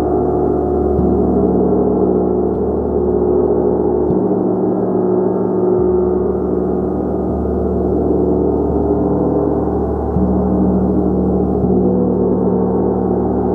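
Gong played continuously with a mallet, many overlapping ringing tones merging into a loud, steady wash, with the low tones shifting every second or two as new strokes land.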